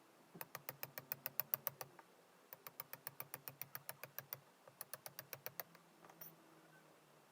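Rapid runs of small sharp clicks or taps, about nine a second, in three bursts of one to two seconds each with short pauses between.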